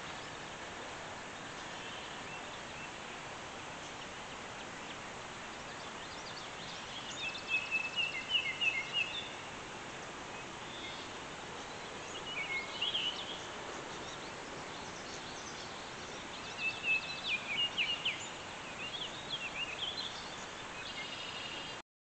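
Steady outdoor background hiss with a bird singing three short bursts of quick, high chirping notes, about 7, 12 and 17 seconds in. The sound cuts off suddenly at the end.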